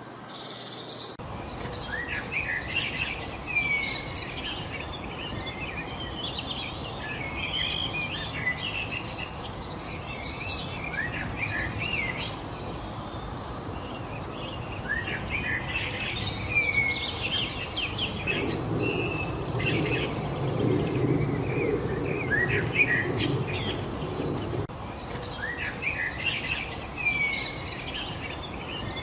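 A chorus of many wild birds singing and chirping at once, dense overlapping short calls and trills, over a steady background hiss. Past the middle a low rumbling noise joins in for about six seconds.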